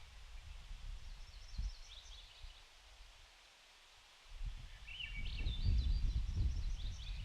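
Wind gusting across the microphone as an uneven low rumble, easing off for about a second in the middle and then returning stronger. Small birds call in short high chirping phrases twice, about a second in and again in the second half.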